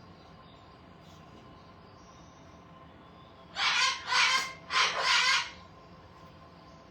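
Pet parrot calling loudly: three or four harsh, pitched squawks in quick succession, about three and a half seconds in.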